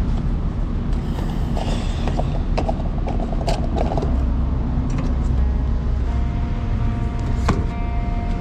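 Steady low rumble with creaks, rattles and clicks, as in the cabin of a moving car. Faint steady music tones come in about six seconds in.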